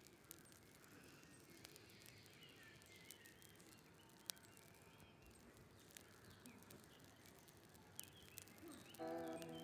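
Faint outdoor ambience with scattered small clicks and faint bird chirps. Music starts near the end.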